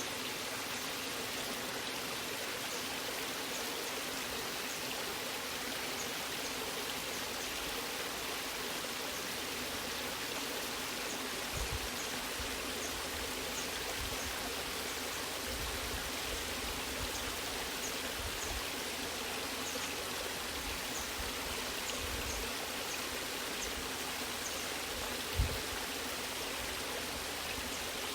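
Waterfall: a steady rush of falling and flowing water. A short low thud sounds once near the middle and more strongly near the end.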